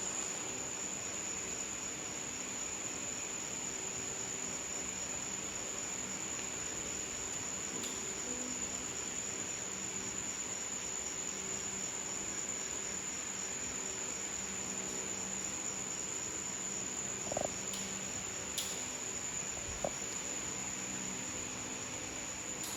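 Steady high-pitched drone of insects, with a low steady hum underneath and a few faint clicks near the end.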